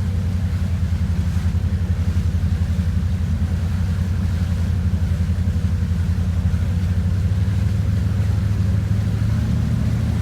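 Motorboat engine running steadily underway, a low, even throb heard from aboard.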